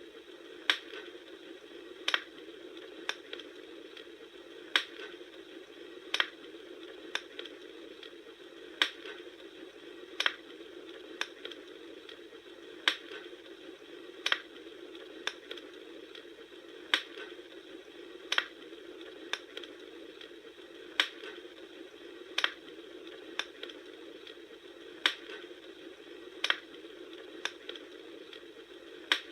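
Wood fire crackling: sharp pops, a loud one about every second and a half with fainter ones between, over a steady soft hiss.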